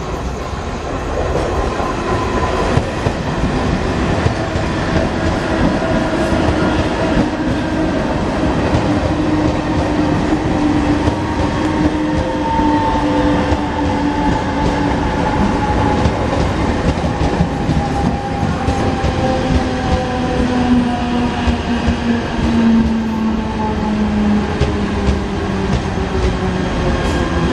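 Electric multiple-unit suburban local train running along the platform: a steady rumble and clatter of wheels on rail, with a motor whine that falls slowly in pitch as the train slows.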